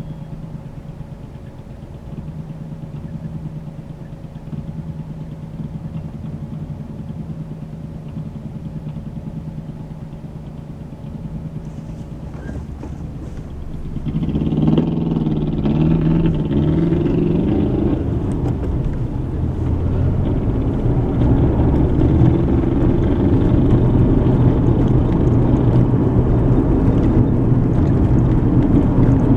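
Car heard from inside the cabin: a quiet, steady engine hum at first, then about halfway through the car accelerates and the engine and tyre road noise rise and stay louder.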